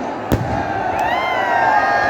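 Rally crowd cheering and shouting over a steady din, with one sharp firework bang about a third of a second in and a fainter pop about a second in.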